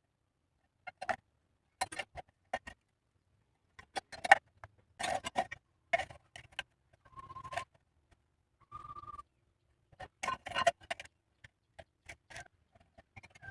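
Irregular sharp clicks and knocks of metal pipe pieces and tools being handled and fitted, with two brief steady whirs, each under a second, in the middle.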